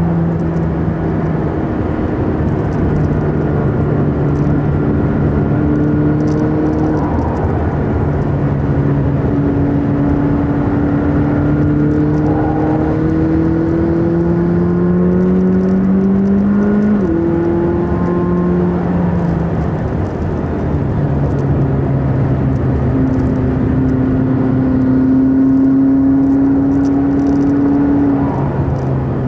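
McLaren 600LT's twin-turbo V8 heard from inside the cabin, running at moderate revs under light throttle. Its pitch climbs slowly for a few seconds around the middle and steps sharply up or down a few times as the car changes gear, over steady tyre and road noise.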